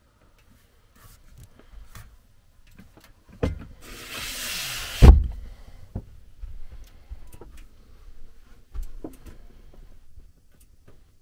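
A knock, then about a second and a half of rushing, scraping noise that ends in one loud bang, followed by scattered clicks and knocks.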